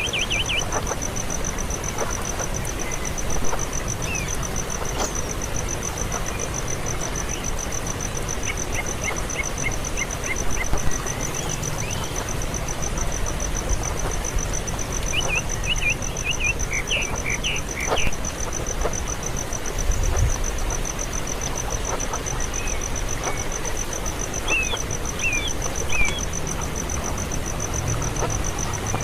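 Nestling birds giving several bursts of short, high chirps, the calls of chicks waiting to be fed. A steady, high pulsing trill runs underneath.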